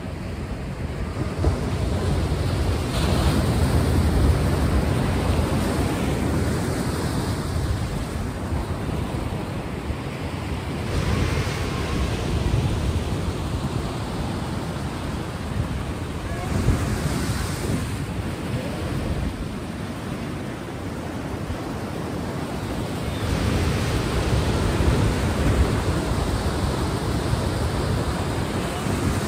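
Ocean surf: waves washing in and out in a steady rush, swelling and easing several times.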